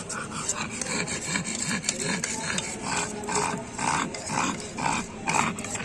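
A dog panting in a quick rhythm, about two to three breaths a second, while a spoon scrapes and clicks as crushed tulsi and basak leaves are stirred into honey to make a paste.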